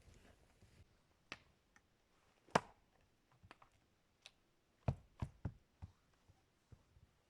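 Scattered sharp clicks and knocks at an uneven pace, the loudest a little over two seconds in and a quick run of three about five seconds in.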